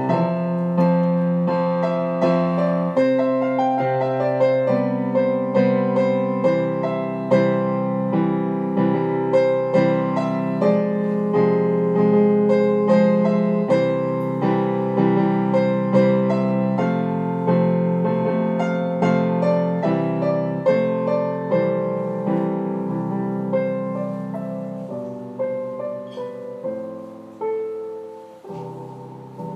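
Background piano music: a steady run of struck notes and chords that grows quieter and sparser over the last few seconds.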